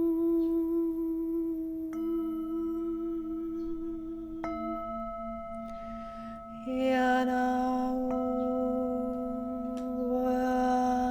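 Overlapping struck, ringing tones that hold steady, with new strikes about two and four and a half seconds in. A voice joins about seven seconds in with a long sung note.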